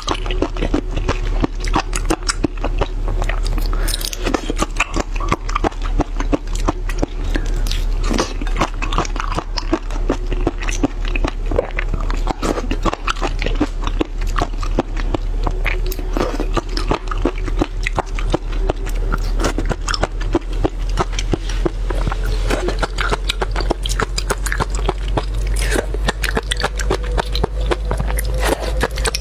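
Close-miked chewing and biting of mud snails: a continuous run of small wet clicks, smacks and crackles.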